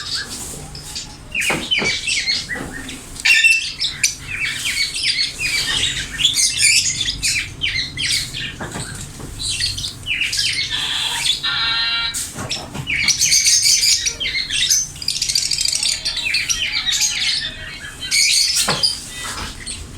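Ring-necked parakeet calling: a dense run of shrill chirps and short squawks, with one longer, harsh, buzzing squawk about eleven seconds in.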